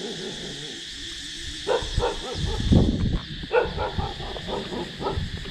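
Dogs barking, a run of short barks that starts a little before halfway and keeps going to the end, over a steady high hum.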